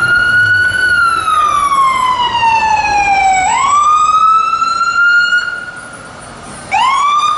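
Fire engine's Whelen electronic siren sounding loudly. It makes one slow wail, falling in pitch over about two and a half seconds and then rising again, and cuts off about five and a half seconds in. A short rising whoop follows near the end.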